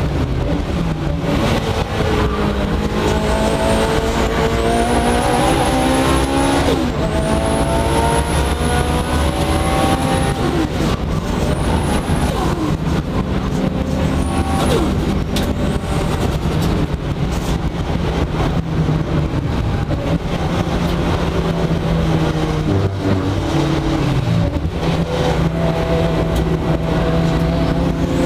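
Mitsubishi Lancer Evolution VIII race car's turbocharged four-cylinder engine, heard from inside the stripped cabin, pulling hard on track: the revs climb and drop back at each upshift several times in the first half, then run steadier. A high whine rises along with the revs on each pull.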